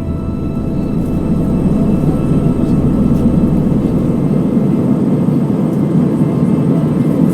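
Steady cabin noise aboard an Airbus A320-232: the even rush of air and hum of its IAE V2500 engines. A low hum underneath drops away about four seconds in.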